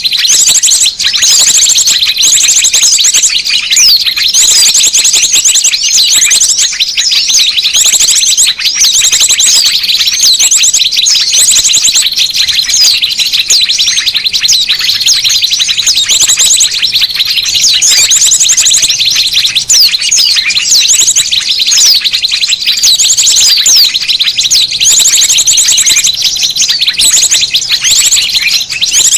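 Dense, loud chorus of many small songbirds chattering, with rapid high chirps and trills overlapping without a break: a bird-lure recording of noisy small-bird calls, played to draw small birds in.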